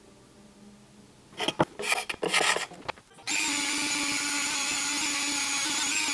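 A few rough scraping strokes on the wooden shaft of a walking stick, stripping the old flaking finish. About three seconds in, a small electric sander starts and runs steadily with a constant whine.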